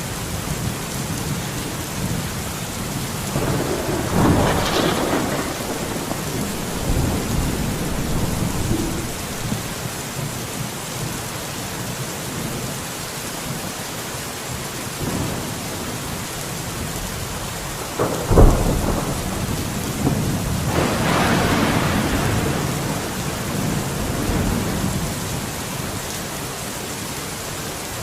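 Steady rain falling, with thunder: a rumble swelling about four seconds in, then a sudden crack about eighteen seconds in followed by a longer rolling rumble.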